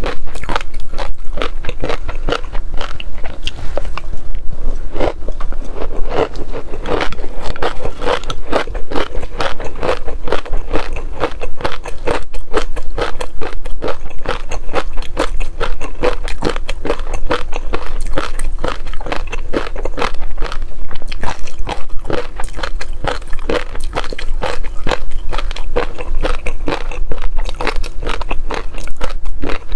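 Close-miked chewing and crunching of shrimp: a dense, continuous run of crisp crackling bites with no pause.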